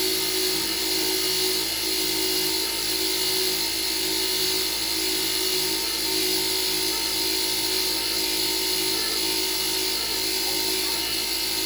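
A power tool running steadily, with a constant high whine and an even low pulsing.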